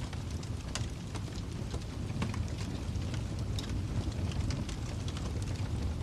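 Wood fire in a fireplace crackling: irregular sharp pops and snaps over a steady low rumble of flames.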